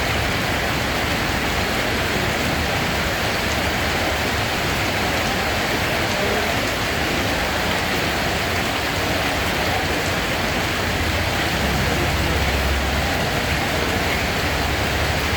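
Steady rain falling, an even unbroken hiss of drops, with a low rumble swelling briefly near the end.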